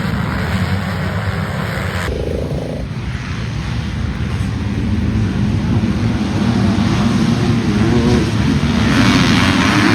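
Motocross dirt bike engines running, the sound breaking at an edit about two seconds in, then building and loudest near the end.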